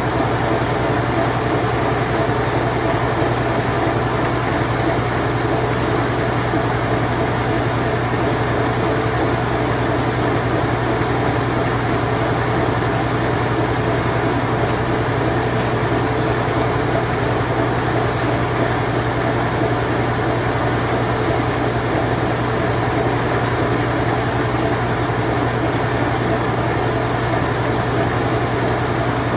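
A late-1980s Whirlpool Imperial Clean Touch washing machine running its spin cycle: a steady whir over a low hum, even throughout.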